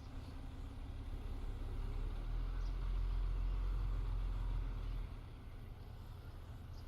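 Diesel engine of heavy earthmoving equipment running with a low, steady rumble. It grows louder about two seconds in, holds for about three seconds, then drops back.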